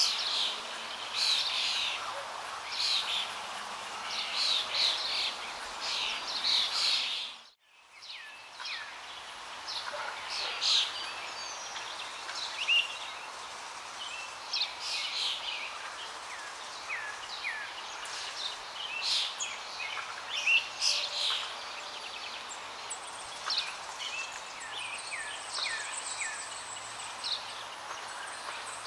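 Small birds chirping and twittering over a steady background hiss, with the sound cutting out briefly about seven and a half seconds in.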